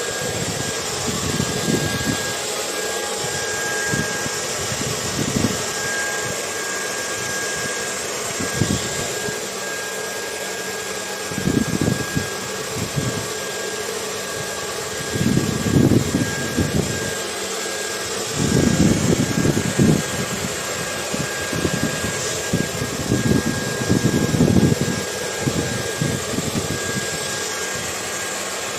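Hair dryer running steadily as white noise: a constant airy hiss with a faint steady whine. It is mixed with wind that surges in irregular low rumbling gusts, most often in the second half.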